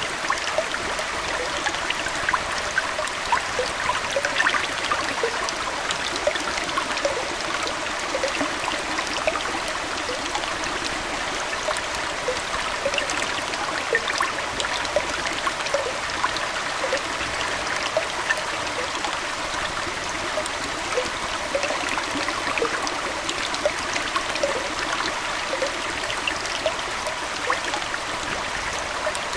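Aquarium water trickling steadily, an even rush of moving water dotted with many small bubbling plinks.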